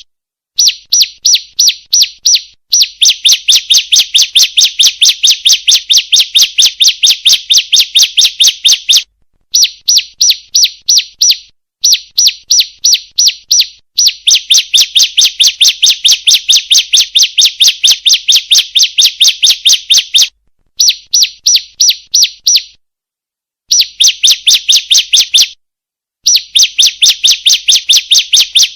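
Female ciblek (bar-winged prinia) calling: rapid runs of sharp, evenly repeated chirps, about five a second, in bouts of one to several seconds with brief pauses between. This is the female's call played as a lure to get caged males to sing.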